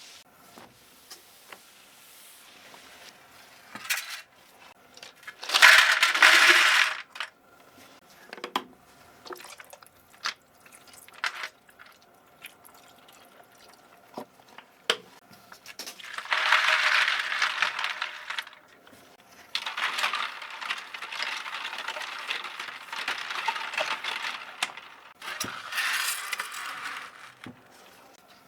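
Keyboard cleaning: small plastic clicks and clinks of keycaps and parts being handled, broken by several bursts of hissing noise, the longest lasting about five seconds in the second half.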